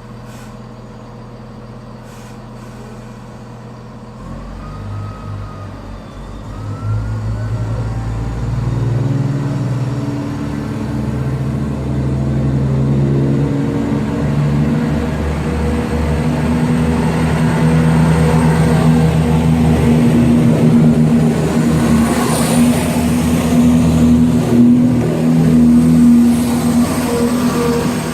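Greater Anglia Class 170 Turbostar diesel multiple unit departing the station. Its diesel engines idle, then throttle up about four seconds in with a rising note, and settle into a steady, loud engine drone that grows louder as the train accelerates away.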